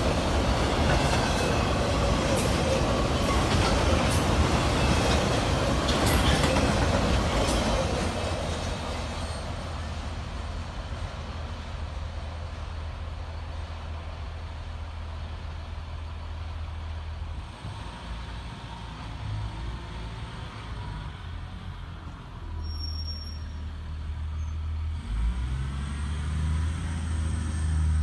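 Auto rack cars of a freight train rolling past on the rails, a loud clattering rumble of wheels on track. After about eight seconds it fades as the end of the train moves away, leaving a low steady rumble.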